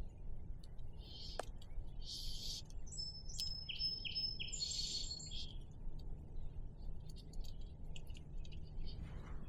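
Wild birds chirping and singing: a run of short, high calls and trills between about one and five and a half seconds in, over a steady low rumble, with a single sharp click near the start.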